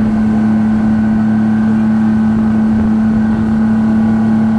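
Speedboat engine running steadily at cruising speed: a loud, even drone that holds one pitch without revving.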